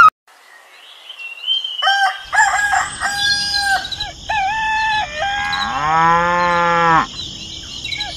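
Farm animal calls beginning about two seconds in: a rooster crowing and clucking, then a cow giving one long moo about six seconds in, over a faint steady hiss.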